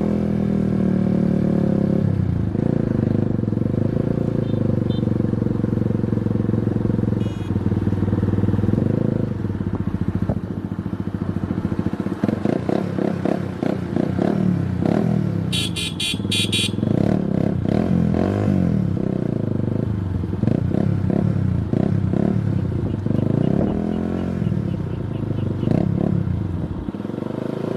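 Motorcycle engine running, steady for about the first nine seconds, then revved up and down again and again. A brief run of sharp clicks comes about halfway through.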